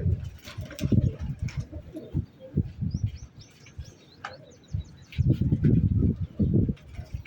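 Pigeons cooing in repeated low pulses, with a quick run of high chirps from a bird about three seconds in.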